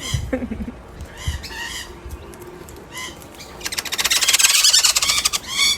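Birds giving short, repeated squawking calls, then a burst of wings flapping for about a second and a half past the middle, the loudest sound, followed by more calls.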